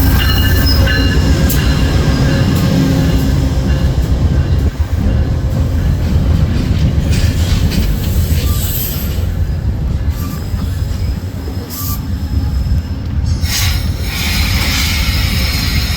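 VIA Rail passenger train rolling into the station and slowing. There is a heavy low rumble from the wheels and cars, with high-pitched wheel or brake squeal in the first few seconds and a burst of clattering and hiss near the end.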